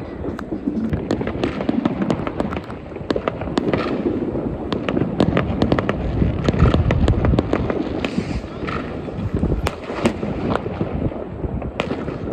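Consumer fireworks going off all around: many sharp bangs and crackles from firecrackers, rockets and cake batteries in quick, irregular succession over a continuous rumble of more distant explosions, thickest in the middle of the stretch.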